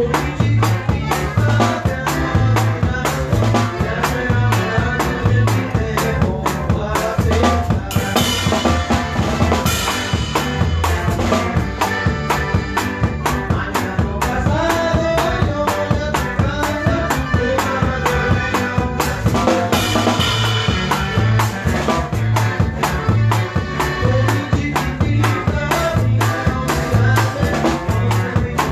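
A norteño band playing live. A drum kit keeps a steady beat under a bass line that bounces between two low notes, with melody instruments on top.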